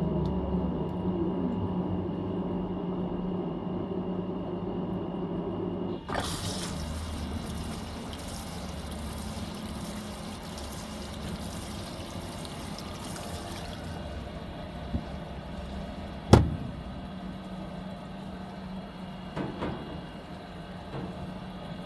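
Fisher & Paykel MW059 washing machine humming steadily; about six seconds in, water starts rushing into the tub as it fills for the final rinse, and the rush eases several seconds later. A single sharp click about two-thirds of the way through is the loudest sound.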